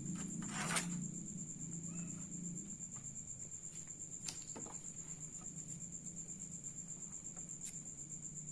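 Steady high-pitched insect trill, finely pulsing without a break, over a low hum. There is a brief rustle about a second in and a sharp click about four seconds in.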